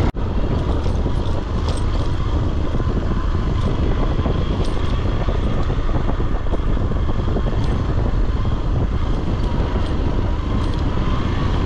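Motorcycle ridden along a dusty dirt road: the engine running steadily under heavy wind noise on the rider's microphone.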